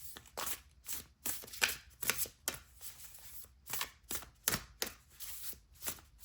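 A deck of divination cards being shuffled by hand: a run of irregular short rustling strokes.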